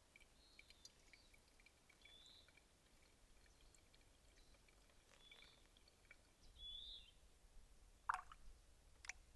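Near silence with a few faint, short bird chirps spread through, and a couple of small clicks near the end.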